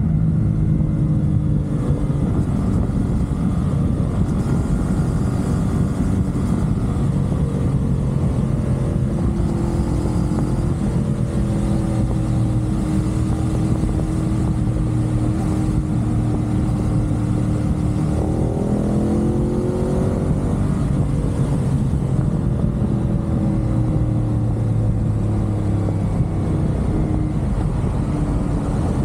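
CFMoto 450SR's parallel-twin engine running steadily at expressway speed under a low rush of wind and road noise. About two-thirds of the way through, its note rises as the bike picks up speed.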